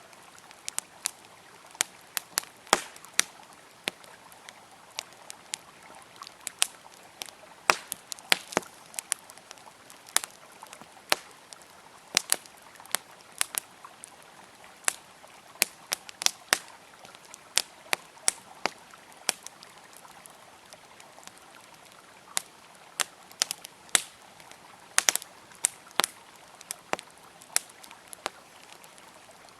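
Wood fire crackling, with irregular sharp pops and snaps, over the steady rush of a flowing river.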